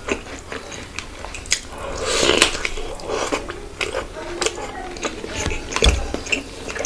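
Close-miked mouth sounds of a person eating khichuri by hand: chewing with many small wet clicks and lip smacks. There is a longer, louder stretch about two seconds in.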